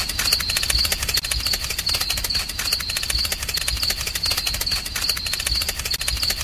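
Small machine running with a rapid, steady clatter of clicks and a high whine that pulses with it, typical of a small motor driving a model's gears.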